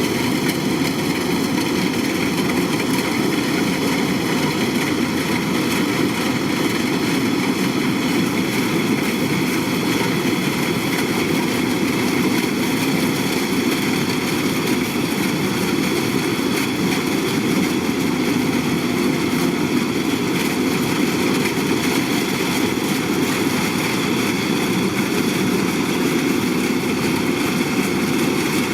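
Kubota DC-105X combine harvester running steadily: an even engine drone with a constant high mechanical whine over it.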